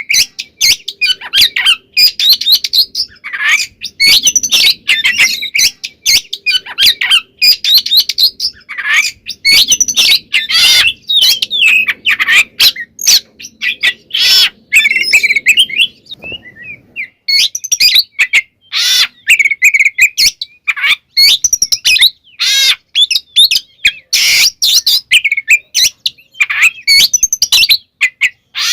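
Oriental magpie-robin singing loudly and continuously, a rapid run of varied whistles, trills and harsh notes with short breaks between phrases and one brief pause about halfway through.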